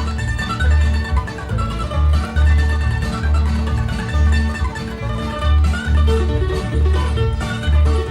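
Instrumental bluegrass band playing a fast fiddle tune, with a mandolin lead over guitar and banjo and a steady low bass note about twice a second.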